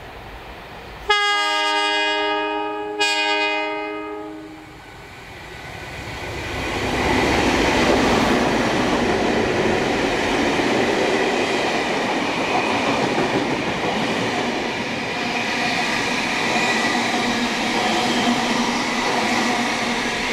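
Diesel-electric locomotive horn sounds two blasts, the first about a second in and the second, shorter one ending at about four and a half seconds. The train's noise then builds as the diesel locomotives pass at speed, followed by the steady rolling of stainless-steel passenger carriages over the rails.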